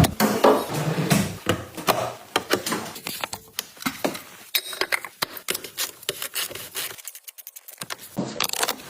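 Irregular clicks, taps and rubbing of small hard objects being handled, like tools and parts during hands-on work.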